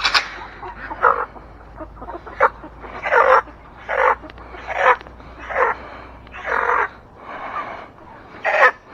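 A chicken squawking over and over, about ten harsh calls roughly a second apart.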